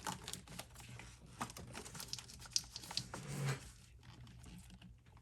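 Scattered faint clicks and light rustling from a plastic fuel-line disconnect tool being worked onto the fuel rail's quick-connect fitting.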